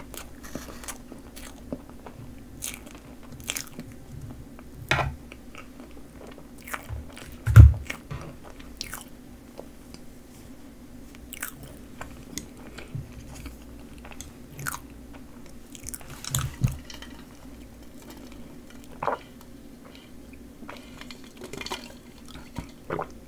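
Close-miked chewing and wet mouth sounds of Choco Pie eaten with whipped cream, with scattered small clicks over a steady low hum. A single low thump about seven and a half seconds in is the loudest sound.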